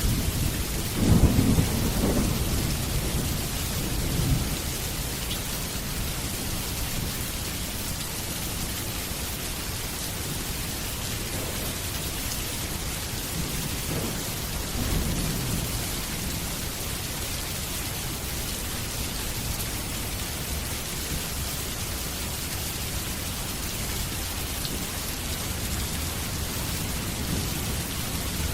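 Steady rain falling, with low rolls of thunder: a loud one about a second in that fades over the next few seconds, and a fainter one about halfway through.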